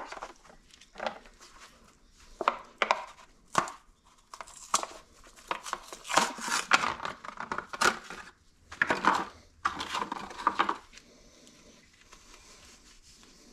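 Hand work on the recoil starter of a rammer: an irregular string of clicks and knocks from metal and plastic starter parts being handled, with longer rattling scrapes in the middle. It dies down near the end.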